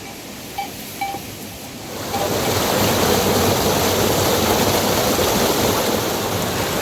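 A steady rush of flowing water, like a swollen stream or waterfall, comes up about two seconds in and runs on loudly.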